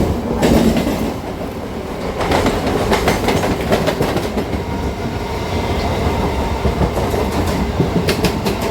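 Freight train wagons rolling past at close range: a steady rumble, with the wheels clacking over rail joints in short groups of sharp clicks.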